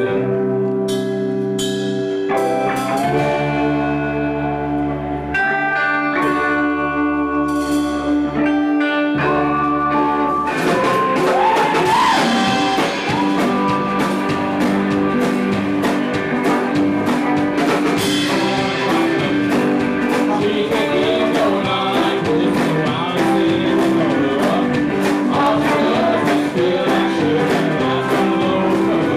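Live band music: guitar playing held chords over low bass notes, then the drum kit and full band come in about ten seconds in and play on steadily.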